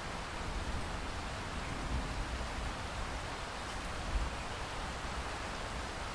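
Steady rain falling, a continuous even hiss with a low rumble beneath and a few faint irregular drop ticks.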